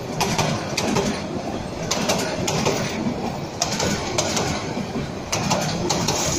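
Intercity passenger train coaches rolling past at close range, with a steady rumble and the wheels clacking over the rail joints several times a second.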